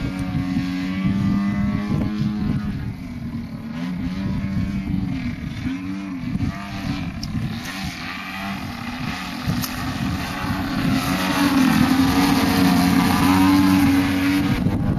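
50cc gasoline engine of a radio-controlled aerobatic model airplane running in flight, its pitch rising and falling as the plane manoeuvres and passes. It gets louder in the last few seconds.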